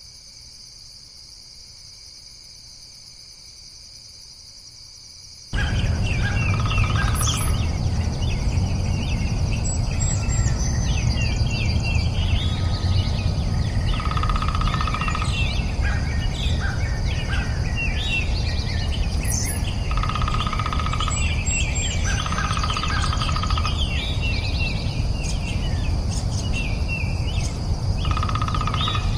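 A steady insect drone, then, about five seconds in, a sudden loud chorus of many birds chirping and calling over the insects.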